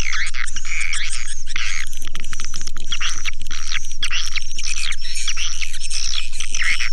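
Recorded swiftlet call used as a lure for edible-nest swiftlets: a dense, unbroken twittering of chirps and clicks, over a steady low hum.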